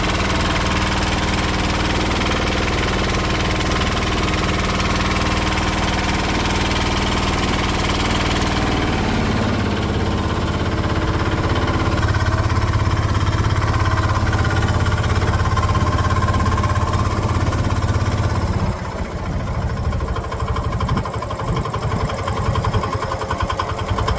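An engine running steadily, its pitch shifting about nine seconds in, then becoming uneven and fluctuating for the last few seconds.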